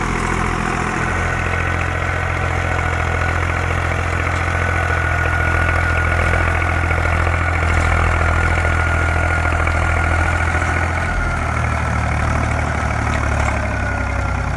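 Zetor tractor's diesel engine running steadily under load while driving a rotary tiller, with a faint high steady whine above the engine hum.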